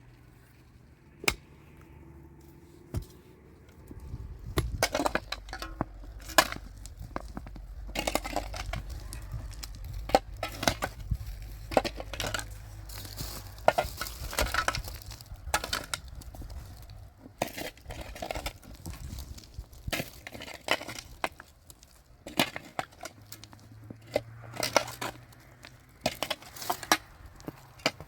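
Irregular sharp clinks, knocks and scrapes of hard building material being handled and struck, typical of concrete blocks and hand tools in masonry work. A low steady rumble sits underneath from about four seconds in.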